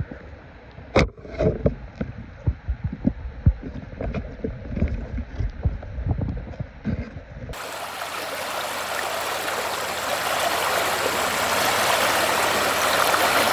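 A run of irregular dull low thumps, then about halfway through a sudden change to the steady rush of a mountain stream flowing over rocks, which grows a little louder.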